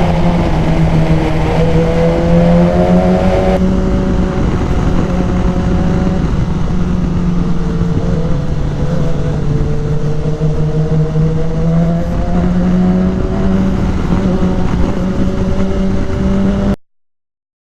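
BMW S1000XR inline-four engine, fitted with a K&N high-flow air filter, running on the move with wind rush. Its pitch rises and falls gently as the throttle changes, with no hard revving. The sound cuts off abruptly near the end.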